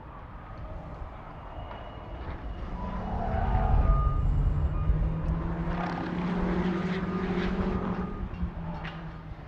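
A vehicle engine droning steadily. It swells to a peak about four seconds in, holds, then eases off near the end, like a car driving past or accelerating.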